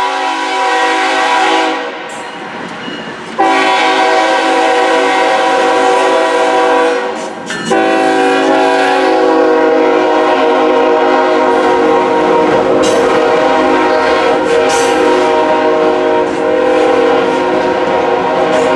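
Locomotive multi-tone air horn sounding a chord in three blasts: a short one ending about two seconds in, then two long ones, the last held for more than ten seconds. Rolling train noise runs underneath.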